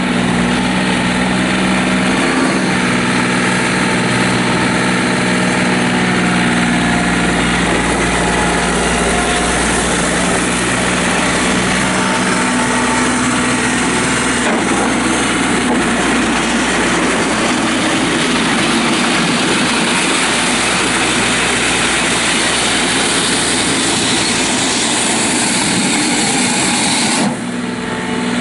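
John Deere 3720 compact tractor's diesel engine running steadily. Its even tone turns rougher and noisier about halfway through, and there is a brief dip near the end.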